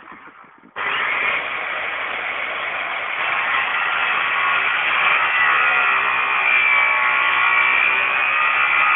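Power saw cutting 3/4 inch metal rod to length: the motor starts about a second in, then runs steadily through the cut with a high whine over a harsh grinding noise.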